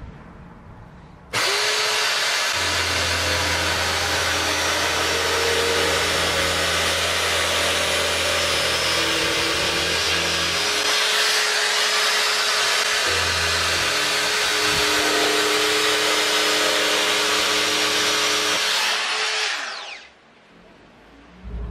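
Electric drill running steadily with a dense whirring noise, switched on abruptly about a second in and spinning down near the end.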